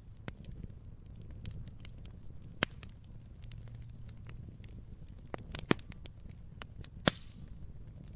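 Wood fire crackling: irregular sharp pops and snaps over a low, steady rumble of flames, with three louder pops spread through.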